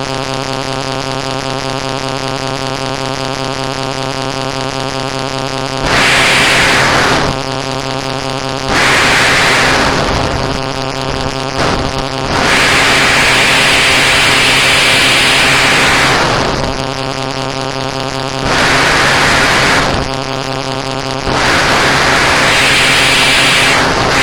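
Steady electrical buzzing hum, with loud bursts of static hiss that switch on and off five times, each lasting one to four seconds.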